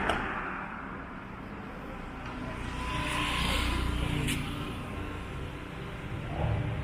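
A motor vehicle's engine running with a low rumble, growing louder for a couple of seconds around the middle and then easing off, with a short sharp click about four seconds in.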